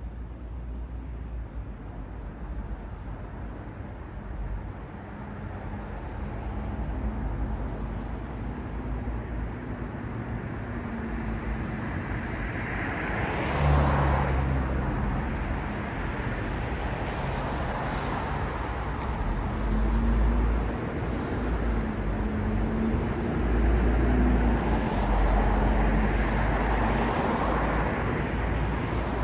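City street traffic: cars and buses passing one after another, their tyre noise swelling and fading over a low engine hum. The loudest pass comes about halfway through.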